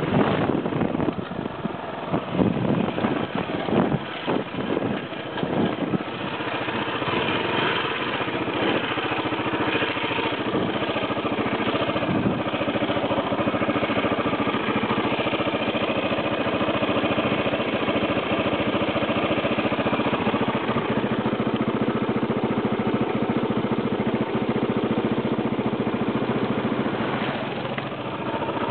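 KTM 640 dual-sport motorcycle's single-cylinder engine running while the bike is ridden. Over the first several seconds there are irregular knocks and buffeting, then a steady engine note that eases off briefly near the end.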